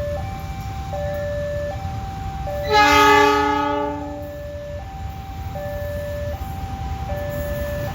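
Level-crossing warning signal sounding a steady two-tone alternation, over a low rumble. About three seconds in, a train horn blows once for about a second, the loudest sound, then fades.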